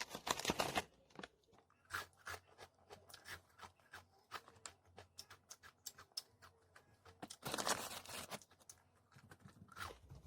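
Close eating sounds: faint chewing with many small clicks and crunches, and two short noisy bursts, one at the very start and one about seven and a half seconds in.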